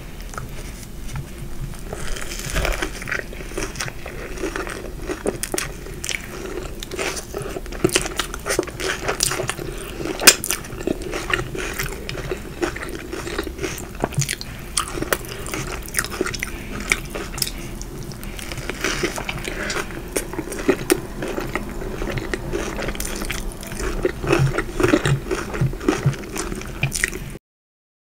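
Close-miked eating: crunchy bites and chewing of crisp fried food, a dense irregular run of crackles with wet mouth sounds. The sound cuts out completely for about a second near the end.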